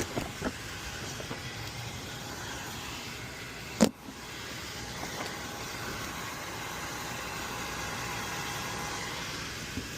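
Steady background noise with a few light knocks at the start and one sharp knock about four seconds in.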